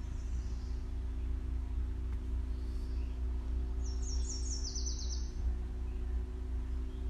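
A songbird sings one short phrase of quick high notes stepping down in pitch, about four seconds in, over a steady low rumble with a faint hum.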